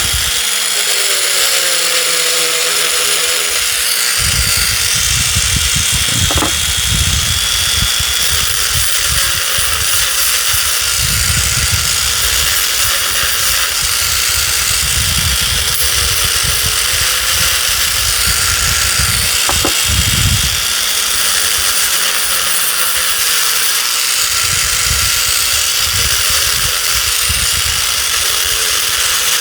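Small rotary tool running steadily on low speed, grinding old spot-weld remnants and leftover nickel strip off the ends of 18650 lithium-ion cells. Its steady whine carries throughout, with a rougher grinding that comes and goes as the bit touches the cell end and lifts off.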